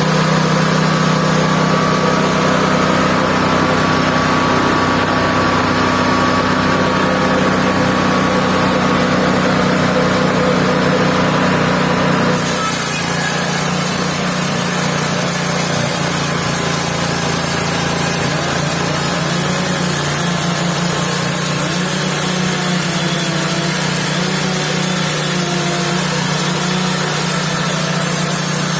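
Engine of a mobile band sawmill running steadily under power, with an abrupt change in sound about twelve seconds in.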